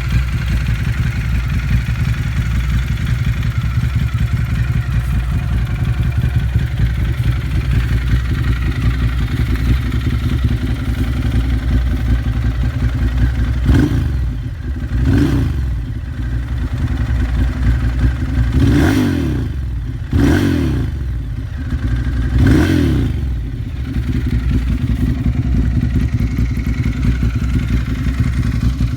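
Ducati Monster 1100 EVO's air-cooled L-twin engine running through a Termignoni full exhaust with no dB killer: it idles steadily, then is blipped about five times in quick revs that rise and fall back, and settles to idle again.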